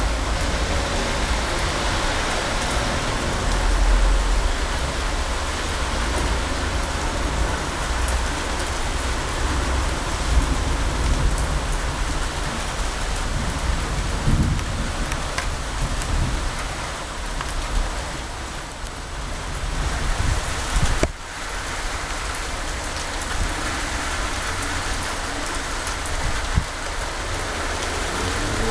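Heavy rain falling steadily in a thunderstorm, an even hiss with a deep low rumble underneath. The sound dips suddenly for a moment about three-quarters of the way through.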